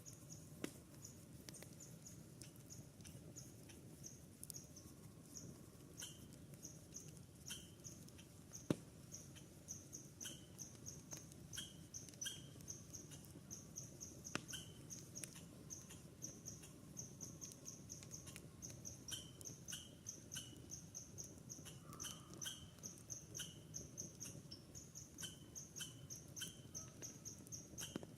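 Campfire crackling quietly over a low hiss, with an occasional sharper pop, under a steady run of short high-pitched chirps, two or three a second, from a small animal.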